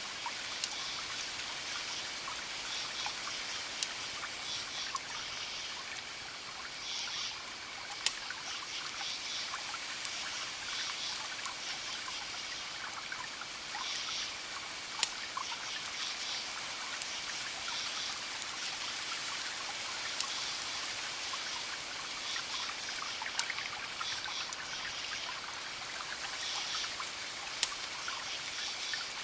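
Campfire crackling with irregular sharp pops, a few much louder than the rest, over crickets chirping in repeated pulsed bursts and a steady wash of distant ocean waves.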